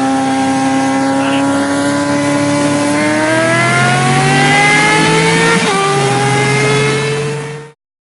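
Vehicle engine running at speed. Its pitch climbs steadily for a couple of seconds as it accelerates, drops abruptly once as if on a gear change, then holds steady and fades out just before the end.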